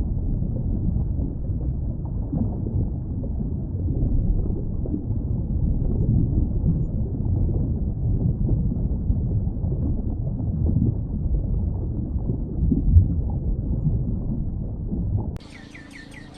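Steady, deep, muffled rumble of rushing water. About fifteen seconds in it cuts off suddenly and quieter high bird chirps begin.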